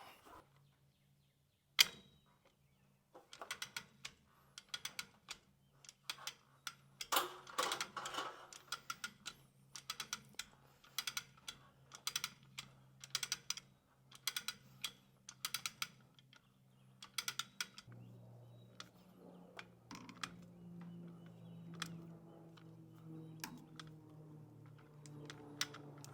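Lever chain hoist (come-along chain fall) ratcheting in quick runs of clicks as a heavy excavator boom cylinder is let down on it. About 18 seconds in, the clicking gives way to a steady low hum with a few stray clicks.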